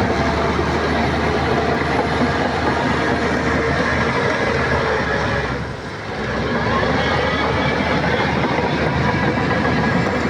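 Shantui crawler bulldozer working: its diesel engine running under load with the clanking, squealing clatter of its steel tracks. The noise eases briefly about six seconds in, then picks up again.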